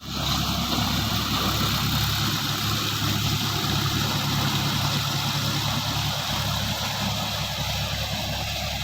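Heavy diesel engine of a backhoe loader or tractor idling steadily.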